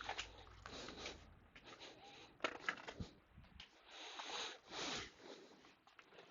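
Faint handling noise of small computer parts on a workbench: scattered light clicks and scrapes with a sharper knock about three seconds in, and two soft breaths near the end.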